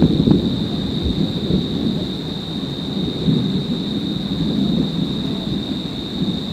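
Thunder rolling in a thunderstorm: a long, low rumble that swells and fades without a break. A steady high-pitched whine runs over it.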